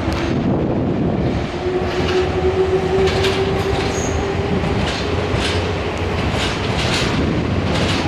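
Nankai electric commuter train moving along the station track: wheels clacking over rail joints in a series of sharp clicks, over a steady drone.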